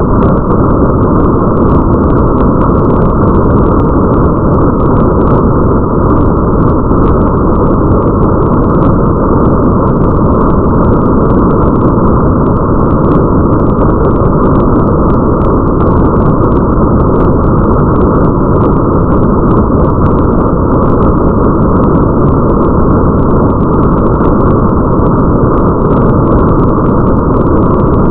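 Muffled rain ambience: a steady, dense, low-pitched wash of noise with faint crackling ticks scattered through it, unchanging throughout.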